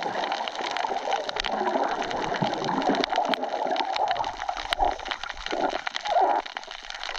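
Water gurgling and splashing close to the microphone, with many small clicks and crackles through it.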